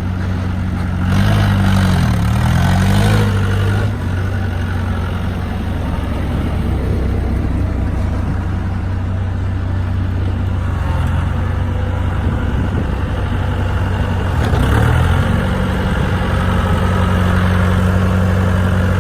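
International tractor engine running at idle, revved up and back down twice about a second in, then settling to a steady idle, with one more short blip of the throttle later on.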